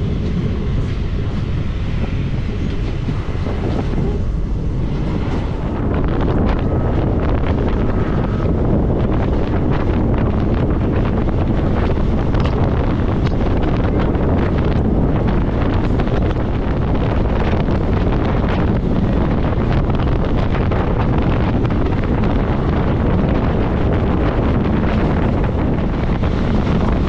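Wind buffeting the microphone held outside a moving passenger train, over the steady rumble of the coaches running on the track. It gets louder about six seconds in as the train runs faster.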